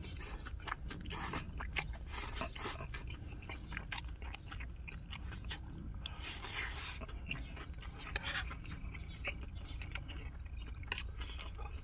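Close-up chewing of a mouthful of kimchi fried rice: wet smacking and clicking of the mouth, with two longer airy slurps as he takes another spoonful.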